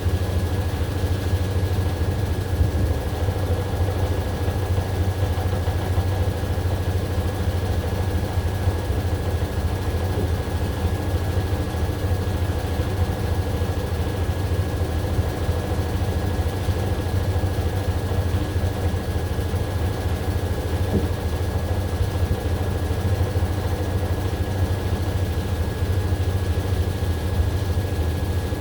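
AQUA AQW-DX12M drum washing machine running with a steady low hum and a faint steady high whine.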